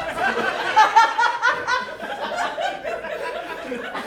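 Audience laughing, with many voices overlapping.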